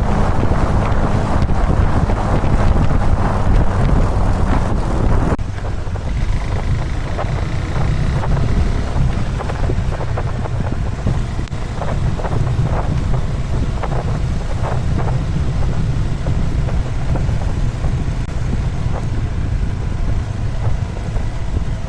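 Motorcycle running on the move, with a steady low engine rumble and heavy wind buffeting on the microphone. The wind noise drops suddenly about five seconds in, leaving the low rumble with scattered light knocks.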